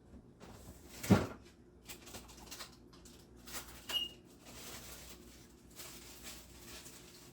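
Small handling noises: one sharp knock about a second in, then scattered light clicks and rustles, with a brief high chirp just before the middle, typical of a pet bird.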